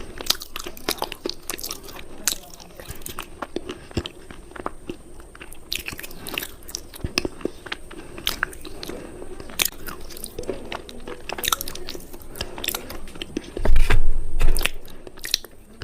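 Close-up biting and chewing of hard crunchy cubes: a run of sharp, irregular cracks and crunches. A loud low rumble comes about fourteen seconds in.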